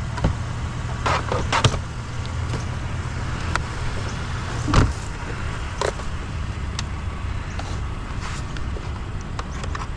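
A vehicle engine idling steadily, with a few sharp knocks and clatters of items being handled about one, two, five and six seconds in.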